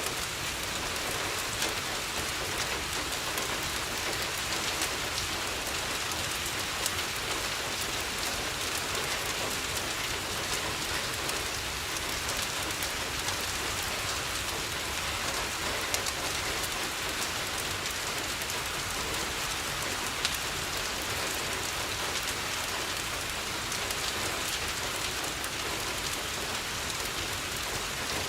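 Steady rain, an even hiss, with a few sharp clicks scattered through it.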